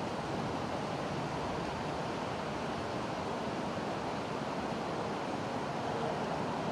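Steady rushing wind noise from strong wind blowing over the microphone, with no distinct events.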